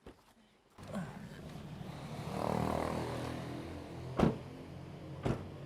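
A car engine running steadily, swelling about two seconds in, with two sharp thumps about a second apart near the end.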